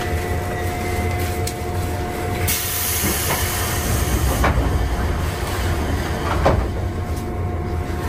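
Stationary electric train's onboard equipment humming steadily, heard from inside the car, with a burst of compressed-air hiss about two and a half seconds in. A few short knocks follow, the loudest about six and a half seconds in.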